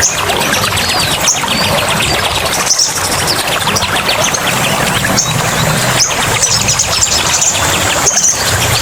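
Several songbirds chirping and trilling in quick, overlapping bursts of short high notes and rapid rattling trills, over a steady rush of running water.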